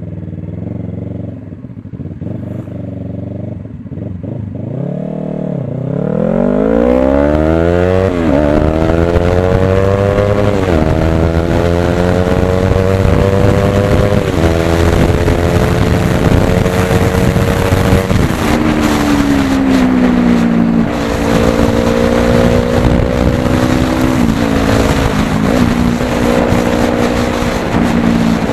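Yamaha YZF-R3's 321 cc parallel-twin engine through a full Akrapovič exhaust. It runs low and steady at first, then pulls away and accelerates through the gears, its pitch rising and dropping sharply at each of about four upshifts, before settling to a steadier run.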